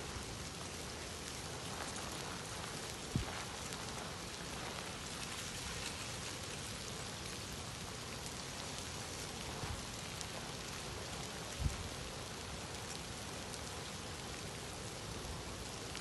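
Steady, even hiss like rain falling, with two brief low thumps, about three seconds in and about twelve seconds in.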